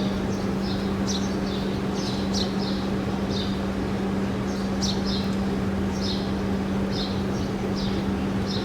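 Small birds chirping repeatedly in short, high notes that fall in pitch, with a steady low hum underneath.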